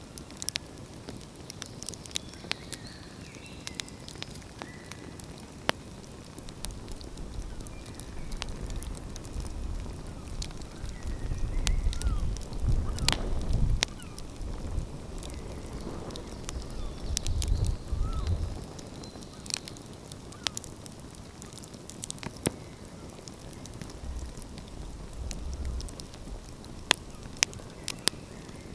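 Wood fire crackling, with sharp pops scattered irregularly over a steady hiss; a low rumble swells up twice around the middle.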